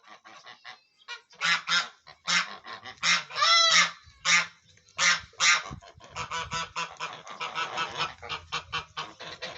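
A flock of farm ducks calling. Loud separate honking quacks come in the first half, then many birds call over one another in a dense, continuous chatter.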